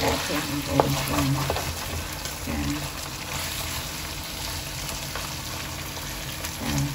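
Frog legs sizzling in hot oil in a nonstick wok while a spatula stirs and turns them.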